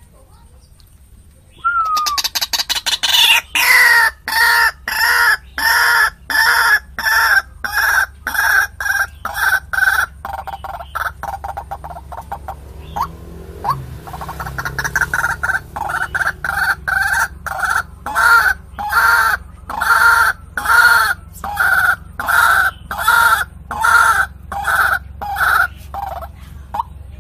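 White-breasted waterhen (ruak-ruak) calling: a long series of loud, harsh calls repeated about one and a half times a second, dying down briefly midway and then resuming. It is played as a lure call for trapping waterhens.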